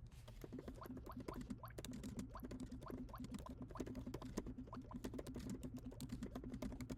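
Rapid typing on a computer keyboard: a quick, uneven run of key clicks, several a second, many with a short rising blip.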